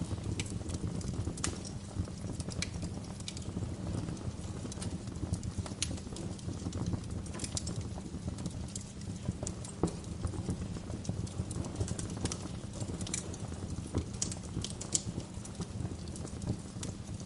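Wood fire crackling in a fireplace: irregular sharp pops and crackles, several a second at times, over a steady low rumble of the flames.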